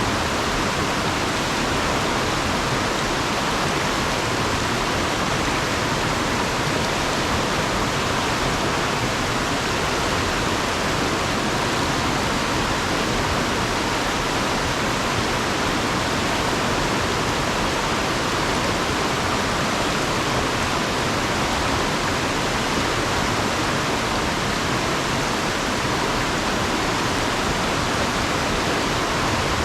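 Fast river water rushing over and around rocks: a steady, unbroken roar of flowing water.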